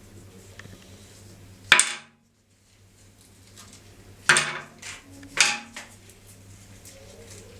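Three loud clattering knocks of hard objects being handled or set down, about two seconds in and then twice close together past the middle, each dying away quickly.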